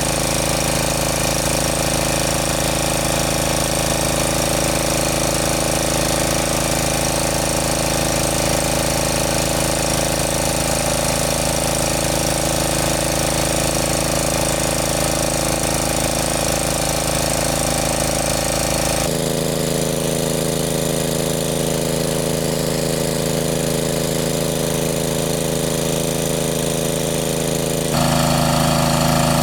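Engine-driven water pump running steadily as it sucks water out. The engine note changes abruptly twice, the second time getting louder near the end.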